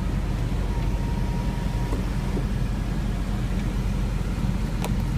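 Steady low rumble of the Porsche Panamera GTS's V8 engine idling, heard from inside the cabin.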